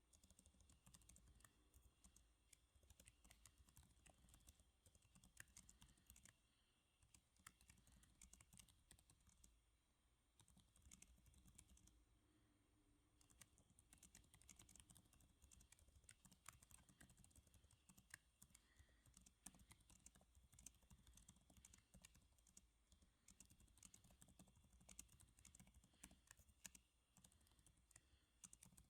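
Quiet, steady typing on a computer keyboard: quick, irregular light key clicks, with brief pauses about six and twelve seconds in.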